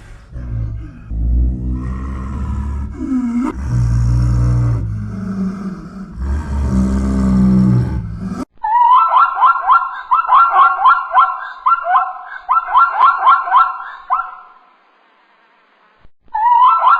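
Animal calls in two parts. For about eight seconds there is deep, low calling. It cuts off sharply and is followed by a fast run of short, high, repeated calls, with a brief silence before they start again near the end.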